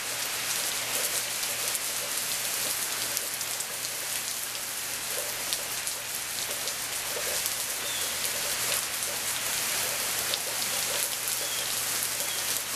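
Steady rain falling and pattering on surfaces, an even hiss dotted with scattered drop ticks.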